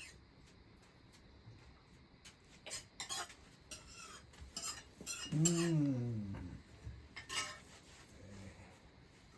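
Metal dishes and spoons clinking and scraping in scattered short knocks as food is served out. A little after five seconds a single voice-like sound slides down in pitch for about a second and a half.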